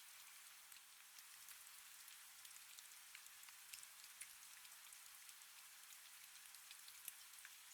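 Soft, steady rain: an even hiss with many small, scattered drop ticks.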